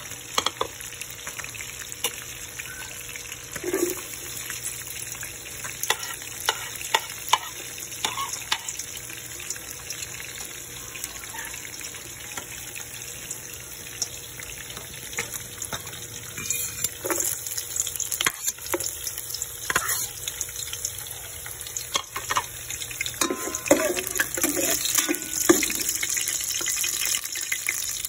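Chopped garlic and onion sizzling in hot cooking oil in a metal pot, with scattered short clicks throughout. The sizzle grows louder over the second half.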